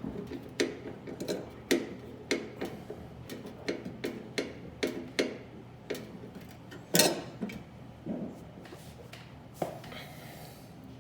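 Irregular sharp clicks and knocks of a screwdriver and metal parts being handled inside a microwave oven's housing while working on its magnetron bracket screws, with one louder knock about seven seconds in.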